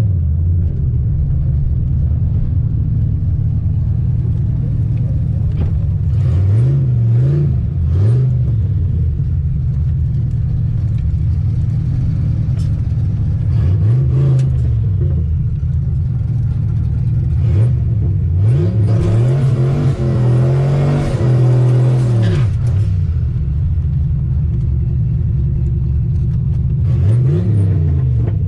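Turbocharged 302 V8 of a 1988 Ford Mustang idling, with several short throttle blips and one longer, louder rev about two-thirds of the way through.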